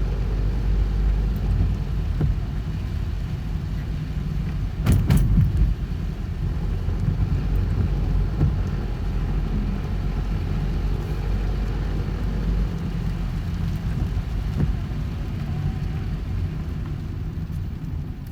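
Road noise inside a moving car: a steady low rumble, with a single sharp knock about five seconds in.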